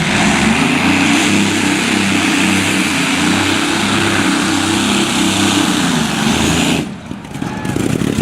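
Engine of a competition pulling machine running hard under load, loud and steady with a heavy low drone. It stops abruptly about seven seconds in, and a quieter, different sound follows.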